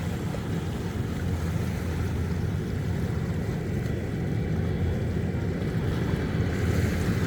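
Low rumbling drone of a military propeller plane on approach to land, growing slowly louder, mixed with wind on the microphone.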